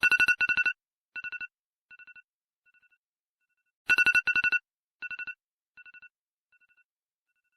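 Mobile phone ringtone: a rapid electronic trill at one high pitch, each loud burst followed by fainter repeats that fade away, the whole pattern sounding twice about four seconds apart.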